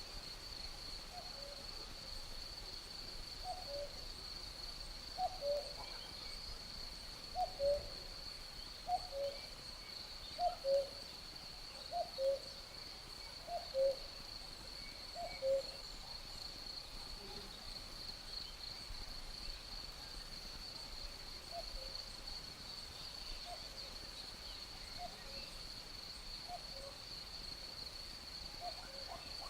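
Common cuckoo calling its two-note falling "cu-coo" about every one and a half to two seconds, loud for the first half, then fainter. Under it, crickets keep up a steady high trill.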